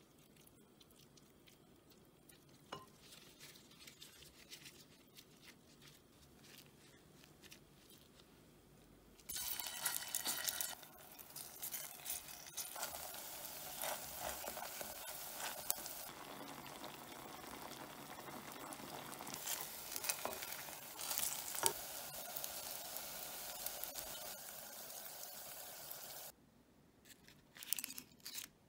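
Kimchi, potato and rice-cake pancakes frying in oil: a steady sizzle starts suddenly about a third of the way in, with the scrape of a wooden spatula, and stops abruptly near the end. Before it, only faint handling sounds; a few light knocks follow it.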